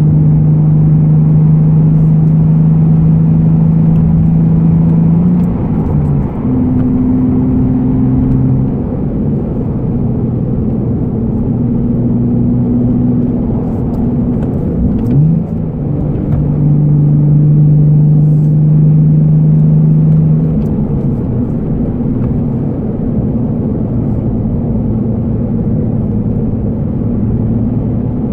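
Nissan Fairlady Z34's 3.7-litre V6 with an aftermarket be free exhaust, heard from inside the cabin while cruising gently: a steady engine drone that changes pitch about a fifth of the way in and again about halfway, with a brief rise in pitch at the second change.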